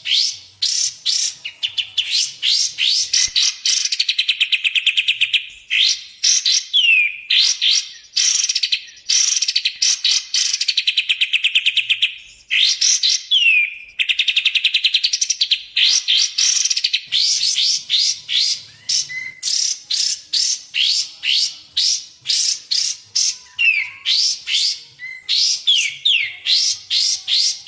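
Recorded songbird song for bird training, from kapas tembak or cucak jenggot. It is a continuous run of rapid sweeping whistled notes with several long, fast rattling trills, one about every four to five seconds.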